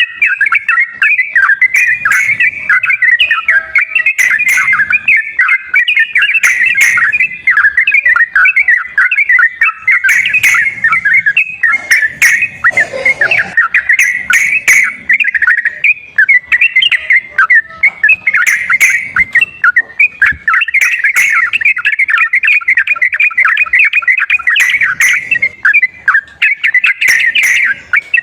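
Yellow-vented bulbul (trucukan) song: a dense, continuous bubbly chattering warble, with sharp ticks every second or two. It is played as a stimulation recording to prompt caged bulbuls to sing.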